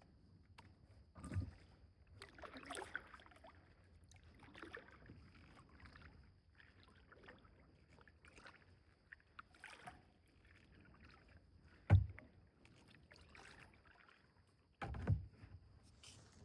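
Kayak paddle strokes splashing in the water, with a few sharp knocks, the loudest about twelve seconds in.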